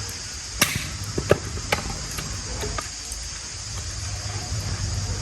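Axe striking a longan hardwood log being split for firewood: a sharp knock about half a second in, then several lighter knocks over the next two seconds, over a steady high hiss.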